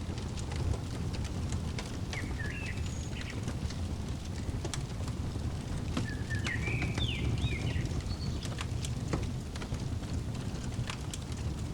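Fireplace crackling: scattered sharp pops and clicks over a steady low rumble of the burning fire. A bird chirps short twittering phrases twice, the longer run about halfway through.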